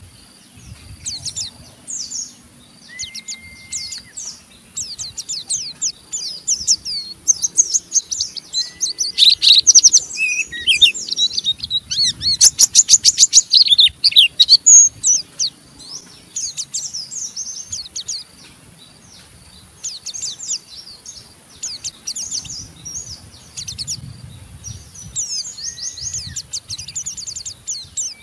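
White-eyes (pleci) singing the rapid, rough twittering 'ngeriwik' song, a fast run of high chirps that grows densest and loudest in the middle, with a few short plain whistled notes in between.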